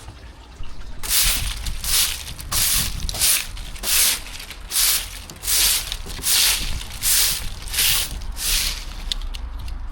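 A broom (walis) sweeping dead leaves, with about a dozen swishing strokes in a steady rhythm that start about a second in and stop near the end.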